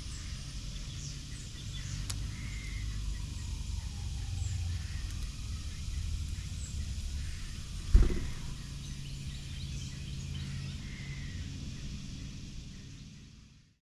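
Outdoor ambience: a steady low rumble with scattered faint bird chirps, and one sharp knock about eight seconds in. The sound fades out near the end.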